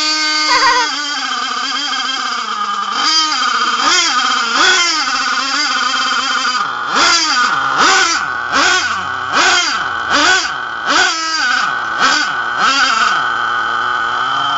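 HPI Savage RC truck's .46 nitro engine running with a high-pitched note that rises and falls. From about halfway it is blipped about eight times in quick succession, then it holds a steadier note near the end.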